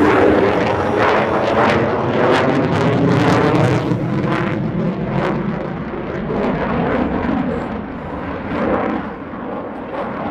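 F-35A Lightning II fighter jet's single Pratt & Whitney F135 turbofan passing overhead: loud jet noise with a ragged crackle, strongest in the first few seconds and growing quieter toward the end.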